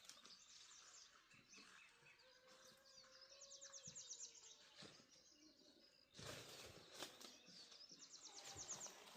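Faint bird calls outdoors: a rapid high trill twice, over a faint rustling background.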